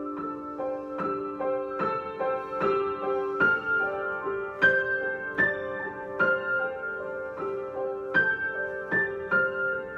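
Solo piano improvisation: a slow melody of single struck notes, roughly one every half second to a second, ringing on over held lower notes.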